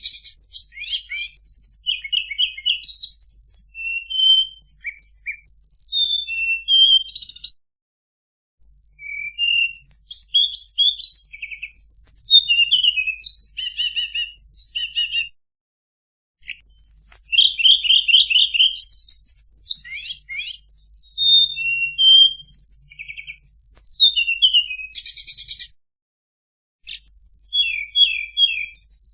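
Tledekan bird singing a fast, varied string of high chirps, whistled notes and short trills. The song breaks off three times in brief spells of dead silence.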